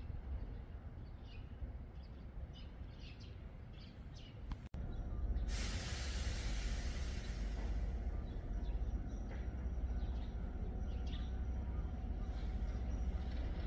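Small birds chirping over a low hum. About five seconds in, after a brief dropout, the louder low rumble of a Hankyu electric train sets in, with a hiss of air lasting about two seconds, and the chirping goes on.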